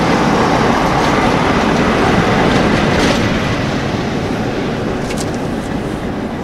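Tail of a passenger train, its last coach and rear Class 47 diesel locomotive, rolling past on the rails with a steady rumble of wheels on track and a few faint clicks. The sound fades steadily as the train moves away.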